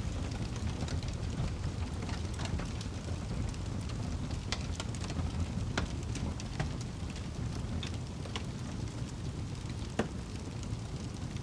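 Wood fire burning in a fireplace: a steady low rumble of flames with scattered sharp crackles and pops, the loudest pop about ten seconds in.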